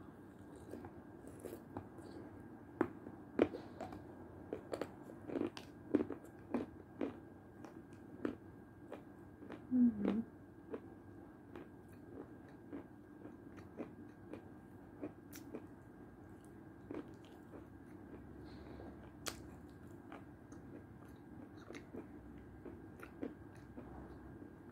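Close-up mouth sounds of eating: chewing and soft crunching of milk-soaked food, with many small clicks that come thickest in the first ten seconds. A brief hum of the voice comes about ten seconds in.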